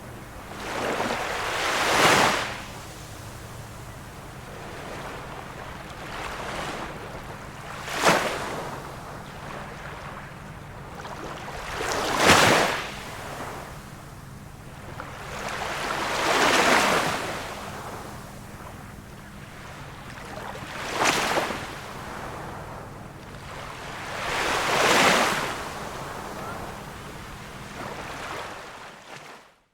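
Small waves of a calm sea washing onto the shore, six washes about four seconds apart, each swelling and fading. The sound cuts off suddenly at the very end.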